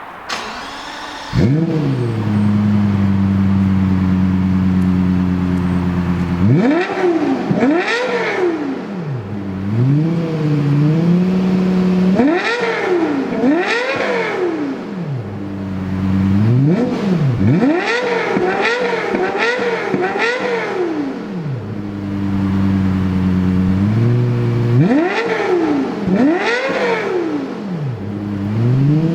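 Lexus LFA's 4.8-litre naturally aspirated V10 on stock exhaust starting up about a second in and settling into a steady idle. It is then revved in sharp throttle blips that rise and fall quickly, including a fast run of about five in a row, with short returns to idle between them.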